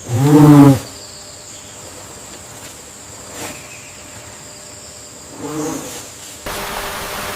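Rainforest ambience: insects keep up a steady high-pitched drone. A loud pitched animal call comes at the start, and a fainter one about five and a half seconds in. Near the end the ambience gives way to a steady rushing noise.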